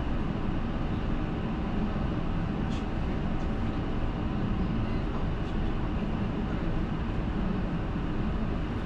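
Steady rumble of a route bus running, engine and road noise heard from inside the passenger cabin.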